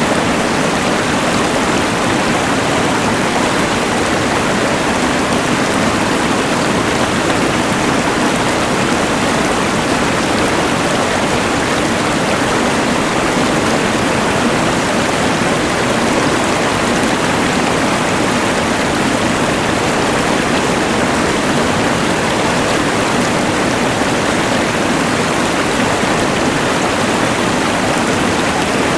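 Rushing mountain river blended with the steady hiss of a LectroFan white noise machine: a loud, even rush of water noise that does not change.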